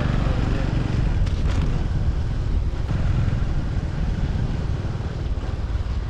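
Wind buffeting the microphone on a moving motorbike, over the steady noise of the bike and street traffic.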